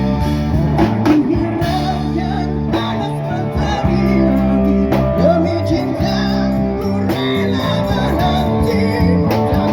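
Buskers playing a song live on guitar and bass, with a man singing the melody.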